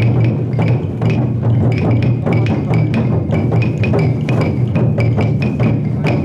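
Large taiko drum of a chousa festival float beaten in a steady rhythm, about three strikes a second.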